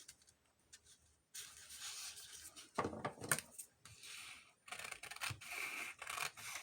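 Paper being handled on a work surface: rustling and rubbing, with a few light clicks about three seconds in.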